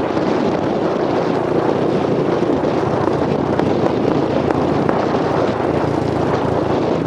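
Motorcycle riding along, its engine running under a steady, dense rush of wind on the microphone.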